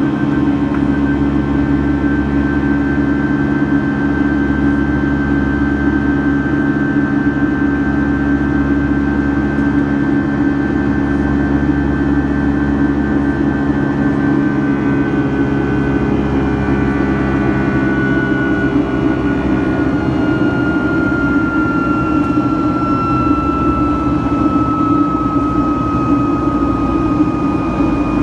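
Boeing 757-200's Rolls-Royce jet engines running steadily, heard inside the cabin as a loud drone with a low rumble. In the second half a high whine slowly falls in pitch.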